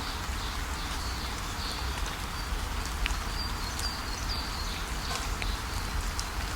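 Waterfall rushing steadily, with small birds giving short, high chirps over it now and then.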